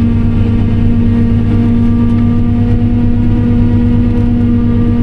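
Diesel engine of a harvest machine running steadily under load, heard from inside its cab as an even, continuous drone.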